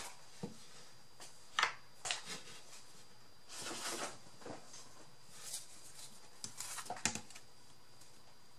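Pieces of cardboard being handled and sorted: scattered short rustles and light knocks, loudest about one and a half seconds in, with a quick cluster near the end.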